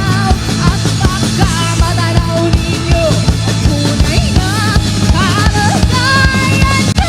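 Live rock band playing a loud instrumental passage: steady drum kit beat under a lead melody that bends and wavers in pitch.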